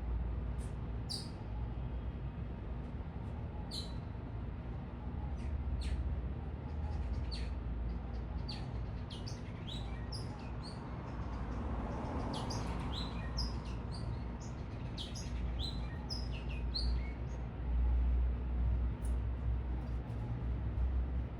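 Small birds giving short, high chirps, many in quick succession and busiest in the middle stretch, over a steady low rumble of city traffic.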